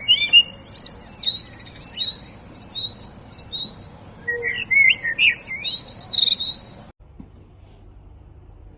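Birds chirping in quick, varied short calls and twitters, which cut off abruptly about seven seconds in, leaving a faint low hum.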